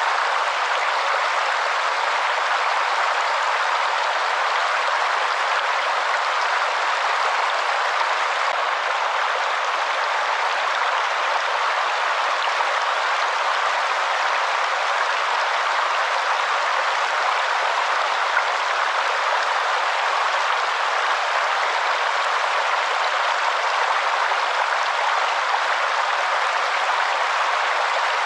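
Waterfall: a steady, unbroken rush of falling water, with no deep rumble underneath.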